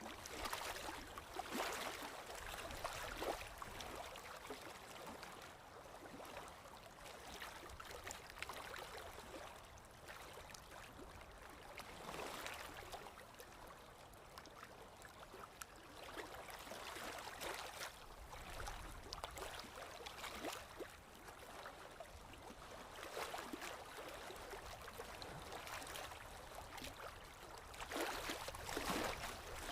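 Faint, irregular scratchy swishes of a paintbrush working acrylic paint on canvas. The strokes come louder about a second in, around twelve seconds in and near the end.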